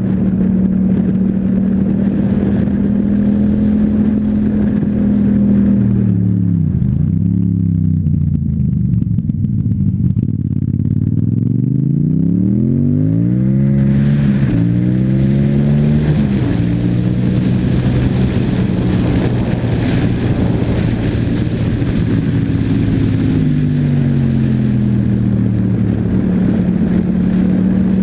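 Yamaha MT-07's parallel-twin engine through an Akrapovic exhaust, running steadily, then dropping off in revs about six seconds in as the bike slows. Around ten seconds it revs back up hard through two quick upshifts, then settles into a steady cruise, with a hiss that grows as speed builds.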